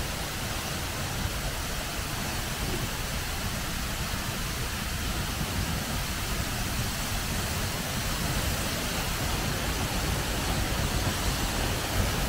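Steady rushing noise of a waterfall, growing slightly louder in the last few seconds, over a low buffeting rumble.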